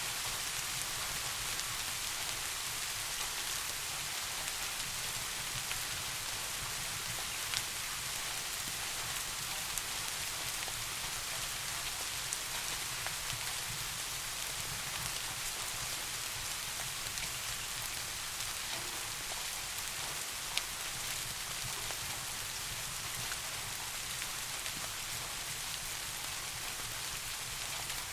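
Steady rain falling, a dense even hiss, with a few isolated sharp ticks scattered through it.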